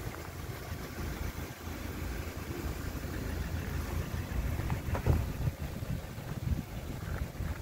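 Car engines idling and running as cars edge past at low speed on an icy street, with a single thump about five seconds in.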